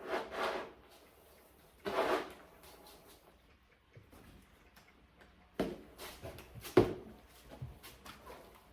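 Plastic litter boxes and lids being handled: two short rough swishes, then a run of hollow knocks and clicks, the loudest about seven seconds in.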